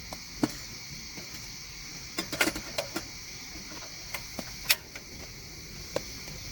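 Raindrops tapping at irregular intervals, a few louder single drips among them, over a steady high-pitched chirring of crickets.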